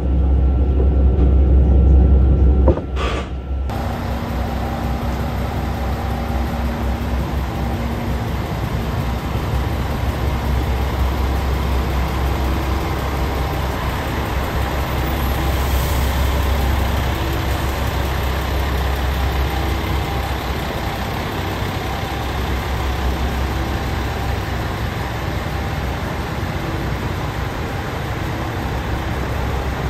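Steady low rumble of a train standing or moving slowly at a station platform, with faint steady engine or motor tones over it. The sound changes abruptly about three seconds in.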